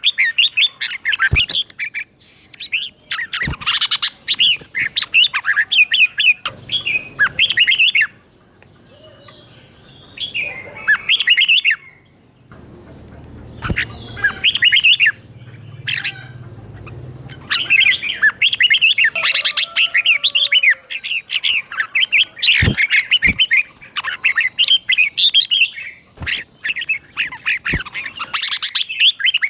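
Red-whiskered bulbul song: quick, chirpy whistled phrases repeated in rapid runs. The singing drops to a few scattered calls for several seconds in the middle, then resumes. A few sharp clicks are heard along the way.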